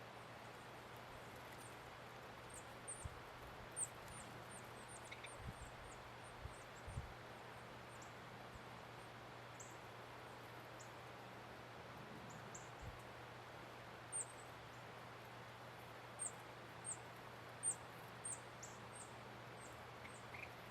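Small birds at feeders giving many short, high, thin chip calls, scattered throughout and thicker near the end, with a few soft low thumps in the first seven seconds.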